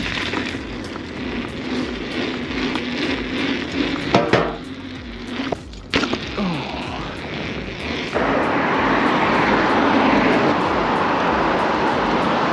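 Wind and road noise rushing past a camera microphone while riding, with a few knocks about four and six seconds in. About eight seconds in the rush jumps suddenly louder and stays there.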